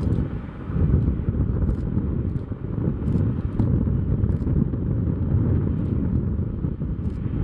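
Wind buffeting the microphone: a loud, steady low rumble, with a few faint short clicks.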